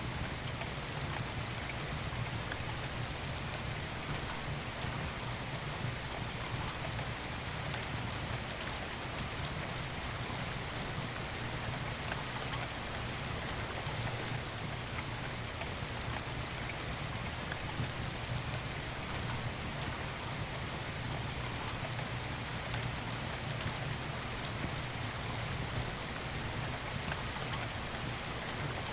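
Steady rain falling, with a few sharp crackles from a wood fire in a fireplace.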